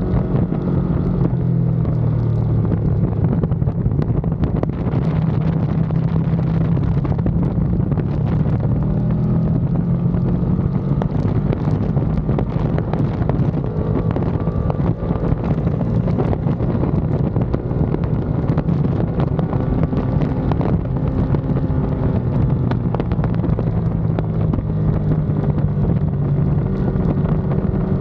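Ducati Panigale V2's V-twin engine running on track, its pitch rising and falling with the throttle, with heavy wind noise on the microphone.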